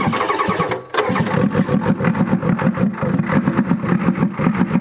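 Ford 7.3 IDI diesel being cranked over by its starter with the air cleaner off, giving a regular pulsing. It breaks off briefly a little under a second in, then carries on steadily without yet catching: a hard start after the truck has sat for years.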